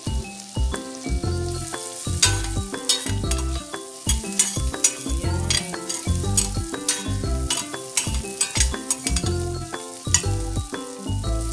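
Ginger, garlic and red onion sizzling as they sauté in butter and oil in a stainless steel pan, with a spatula stirring through them, over background music with a pulsing bass.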